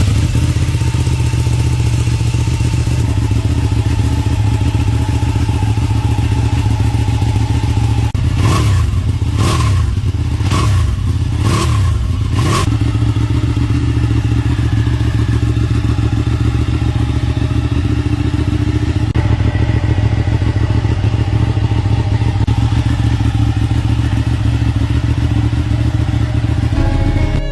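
Ducati superbike engine idling steadily, with five quick throttle blips in a row, each rising and falling in pitch, about a third of the way in before it settles back to idle.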